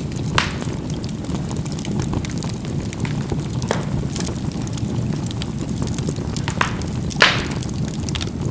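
Charcoal burning in a fireplace: a steady low rumble of fire with a few sharp pops and crackles scattered through it, the loudest a little past seven seconds in.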